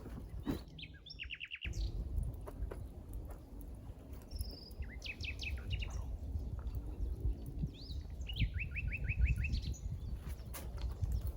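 A small songbird singing three short phrases, each a quick run of about six to seven repeated high notes, over a steady low rumble with a few scattered clicks.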